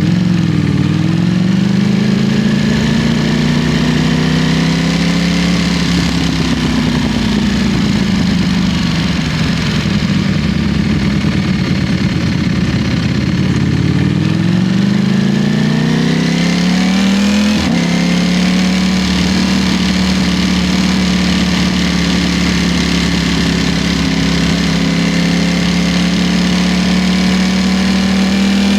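Ducati Streetfighter V4's V4 engine under way at speed with wind rushing past. It climbs and eases off in pitch, climbs again, drops sharply at an upshift a little past halfway, then holds a steady cruise.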